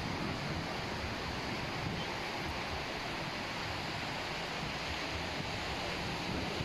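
Surf washing on a beach in a steady hiss, with wind buffeting the microphone as an uneven low rumble.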